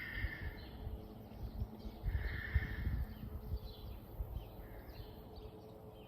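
Wild birds calling: two harsh drawn-out calls, one at the start and one about two seconds in, among many short high chirps. Low rumbling thumps on the microphone underneath.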